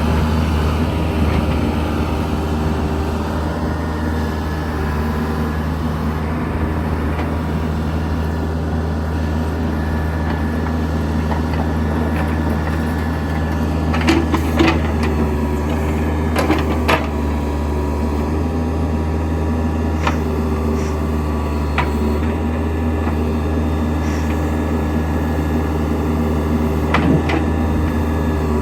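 Case 580L loader backhoe's diesel engine running steadily while the machine is worked, with several short knocks and clanks about halfway through and again near the end.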